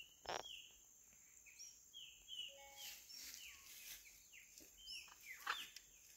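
Faint birdsong: a run of short, high chirps, each dropping in pitch, about two or three a second.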